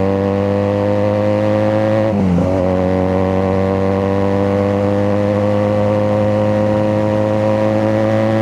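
QJ Motor SRK 400 parallel-twin motorcycle exhaust under acceleration, its pitch climbing slowly. About two seconds in the revs dip briefly, as in a quick upshift, then climb again.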